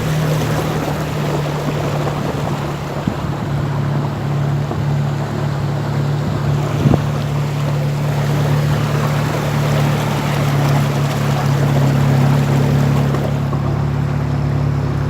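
Rainwater rushing along a flooded street, an even wash of noise under a steady low motor hum, with a single short knock about seven seconds in.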